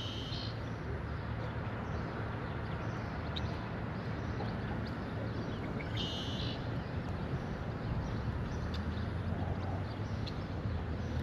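Birds chirping in short bursts, three times, over a steady background hiss and low rumble of outdoor air.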